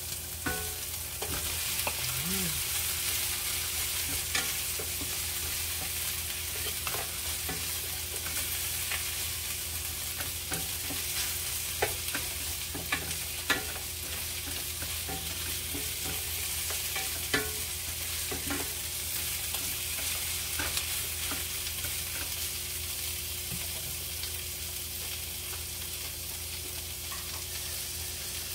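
Sliced onions and pieces of leftover beef barbecue sizzling steadily in a frying pan while a wooden spatula stirs them, knocking sharply against the pan a few times, loudest about halfway through.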